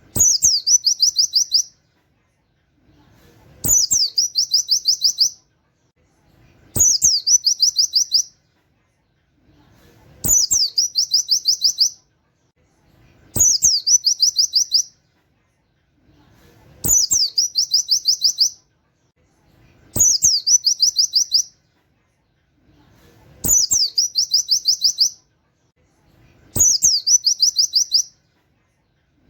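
Pleci (white-eye) singing the same short phrase again and again, nine times, about every three seconds: a quick downward slurred note, then a fast run of about eight sharp, high 'wit' notes. A click comes at the start of each phrase.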